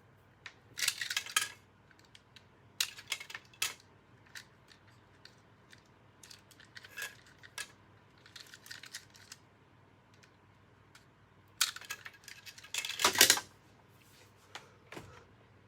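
Hands handling plastic vacuum parts: scattered clicks, rattles and scrapes in short bursts, the loudest cluster about thirteen seconds in.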